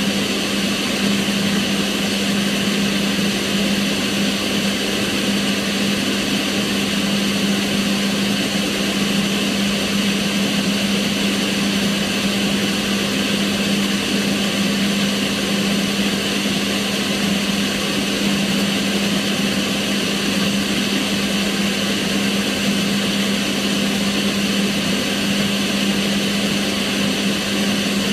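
Kitchen range hood extractor fan running steadily: an even rush of air with a constant low motor hum.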